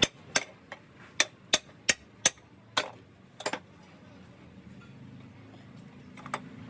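A run of sharp clicks or taps, about three a second, for the first three seconds or so, then a faint low hum with one more click near the end.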